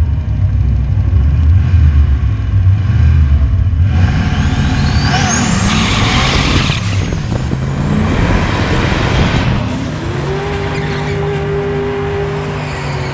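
Drag race car engine running at low revs, then accelerating hard from about four seconds in with a steeply rising whine, and a loud burst of noise around six seconds. A steady engine drone holds over the last few seconds.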